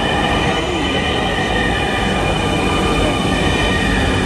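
Dhaka metro train running, heard from inside the car: a steady rumble with a steady whine of several tones above it.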